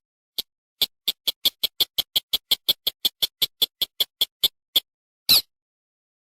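Recorded lure call of a paddy-field rail (mandar): a rapid series of about two dozen short, high ticking notes, roughly six a second, followed by one longer call near the end.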